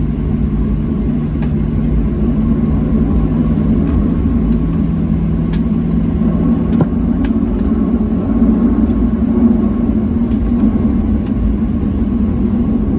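Boeing 737-700's CFM56-7B engines heard from inside the cabin while taxiing: a steady low rumble with a faint high whine. A low hum underneath fades out about seven seconds in.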